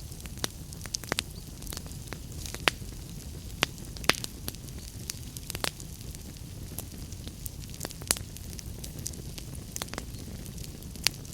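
Wood fire in a fireplace crackling, with irregular sharp pops and snaps, several of them louder, over a steady low rumble.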